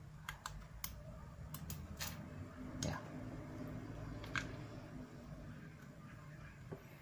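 Scattered light clicks and taps, about eight in the first four and a half seconds, over a low steady hum.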